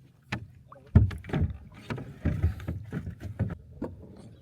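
A small sailing dinghy being handled in shallow water: irregular knocks and thumps of the hull and gear, the loudest one about a second in.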